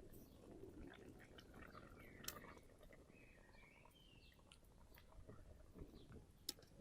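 Quiet outdoor ambience with faint, short bird chirps, soft rustling and two sharp clicks, one about two seconds in and one near the end.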